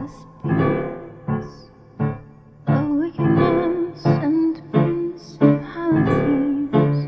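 Piano-style keyboard playing an instrumental song intro, striking a chord roughly every 0.7 s and letting each one ring.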